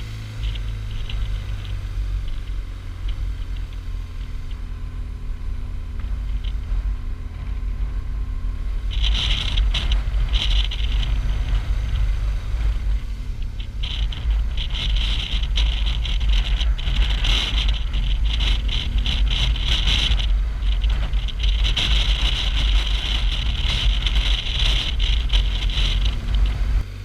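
Motorcycle on the move: a steady low rumble of engine and wind, joined about nine seconds in by a hiss that comes and goes and makes it louder.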